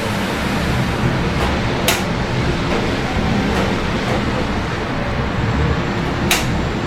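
Steady rain hissing over a low hum of city traffic, with a few sharp ticks of drops striking close by, loudest about two seconds in and again near the end.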